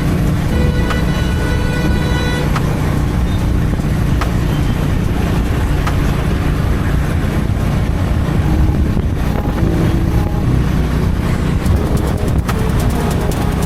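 Honda H'ness CB350's single-cylinder engine and exhaust running steadily under way. Another vehicle's horn honks in the first two seconds or so.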